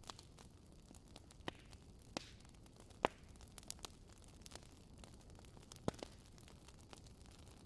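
Campfire crackling: a steady low rush with scattered sharp pops and snaps, the loudest about three seconds in and another near six seconds.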